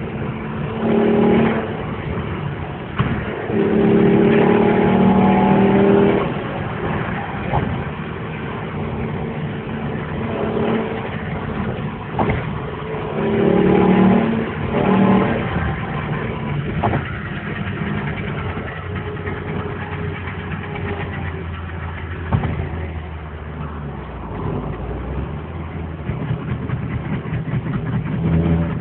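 Alfa Romeo 155's 3.0 V6 engine being revved, held at higher revs in bursts about a second in, for a couple of seconds around four to six seconds in, and again around thirteen to fifteen seconds in, dropping back to a steady idle between.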